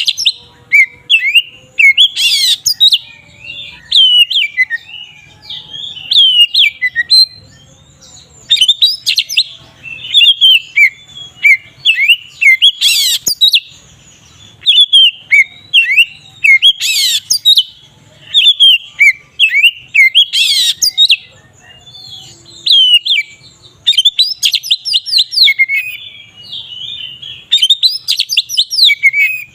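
Oriental magpie-robin (kacer) singing in the loud, continuous 'ngeplong' style: quick runs of varied whistles and chirps with brief pauses, broken by a few sharp, harsh notes that are the loudest sounds.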